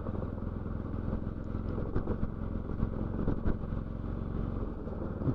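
Motorcycle engine running steadily while being ridden, a low, even engine note.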